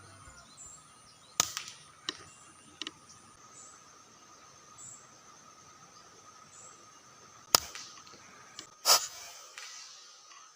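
Five sharp cracks over a quiet outdoor background with faint high chirps: three in the first three seconds, then two more near the end, the last the loudest.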